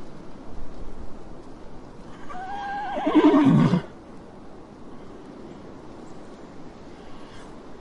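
Horse whinnying once, about two seconds in: a wavering call, lasting about a second and a half, that drops in pitch at the end.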